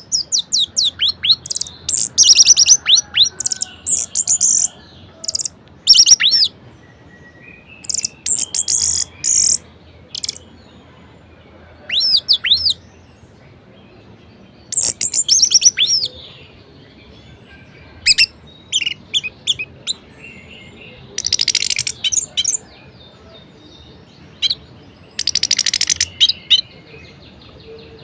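Orange-headed thrush singing a varied song. Short bursts of rapid, high notes, many sweeping sharply downward, come every two to three seconds with short pauses between them.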